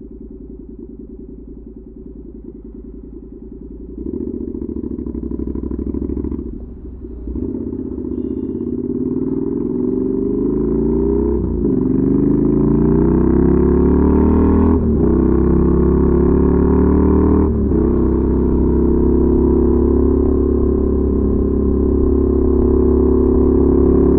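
Honda NC700X parallel-twin through a Danmoto XG-1 aftermarket exhaust, running low and steady, then pulling away under acceleration. The pitch rises through the gears, with three quick upshifts, and then settles into a steady cruise.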